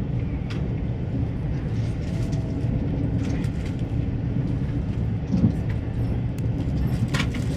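Passenger train running along the track: a steady low rumble with scattered light clicks and one louder knock about five and a half seconds in.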